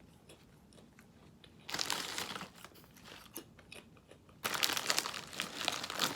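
Crunching and crinkling from a packet of chips, in two bursts: a short one about two seconds in and a longer, louder one near the end.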